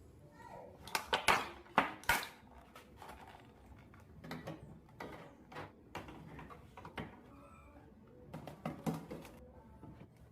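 Irregular clicks, taps and knocks of objects being handled, with the loudest cluster about one to two seconds in.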